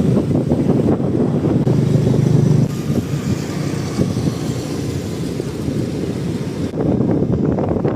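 Wind buffeting the microphone over the rumble of inline skate wheels rolling on asphalt during a downhill run, a little louder in the first couple of seconds.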